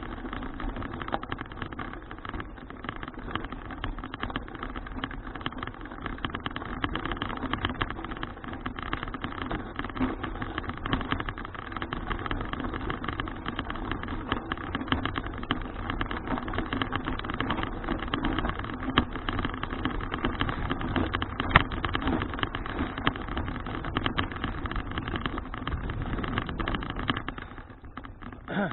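Continuous riding noise from a folding bicycle: tyre roar on the road, rattling from the frame and wind buffeting, all picked up close by a bike-mounted action camera. The noise drops away sharply near the end.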